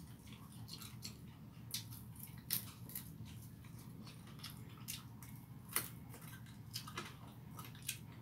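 A person chewing a mouthful of rice and chicken, with irregular wet mouth clicks and smacks over a steady low hum.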